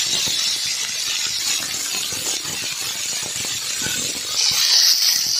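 Potato pieces and vegetable stalks frying in hot oil in an iron wok: a steady sizzle with scattered crackles, the sizzle growing louder about four seconds in.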